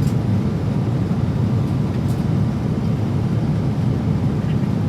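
Steady cabin noise of a Boeing 777-300ER in cruise: a constant low rumble of airflow and jet engines.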